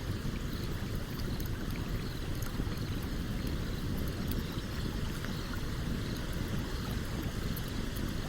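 Stream water running steadily, with the small sharp crackles and pops of a wood campfire scattered throughout.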